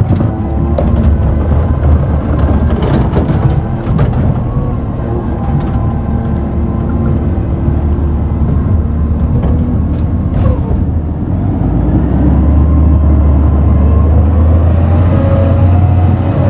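Recycling garbage truck engine running, with a few knocks in the first seconds; about eleven seconds in the engine gets louder and a steady high-pitched whine joins it.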